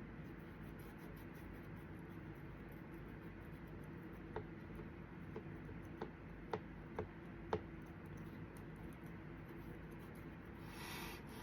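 Faint room hum with about six light clicks and taps in quick succession a third of the way in, then a short soft swish near the end.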